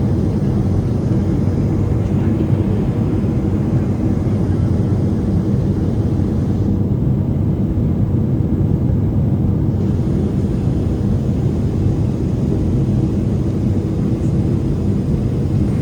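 Cabin noise inside a Boeing 777-300ER airliner: a steady low rumble of jet engine and airflow noise.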